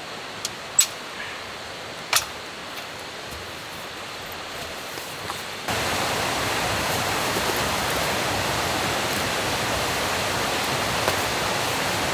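Steady rushing of a mountain stream, with a few sharp clicks in the quieter first part; it gets suddenly louder about six seconds in.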